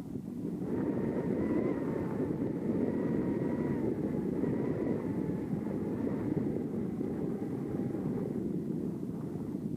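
A steady engine drone with a faint wavering whine, starting about a second in and fading near the end.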